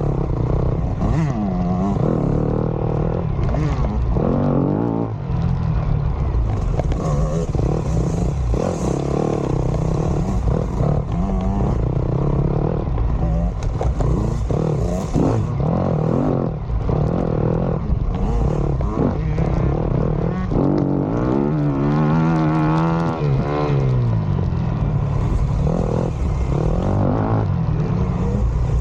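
Yamaha dirt bike engine being ridden off-road, revving up and falling back again and again through the gears, with clatter and rumble from the rough ground.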